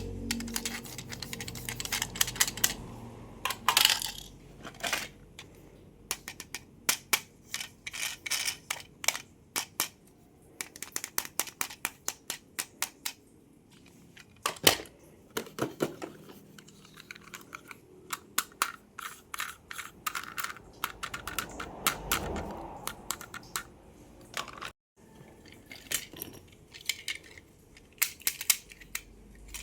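Close-up handling of plastic toy packaging and toy cars: many small irregular clicks, taps and crinkles, with a brief break about three-quarters of the way through.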